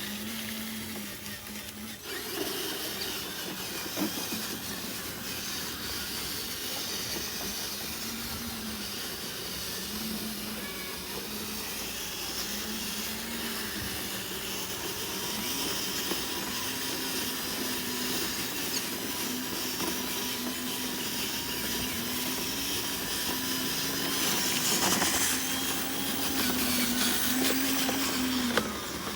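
Small electric motors of radio-controlled construction models whirring steadily, their pitch rising and falling again and again as they work under load.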